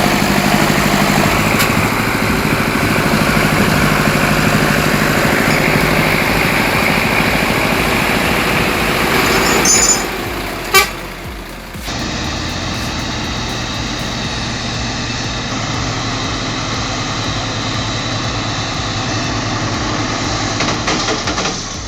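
Heavy truck engines running hard under load, with a short sharp noise about eleven seconds in, followed by a change to another steady engine sound.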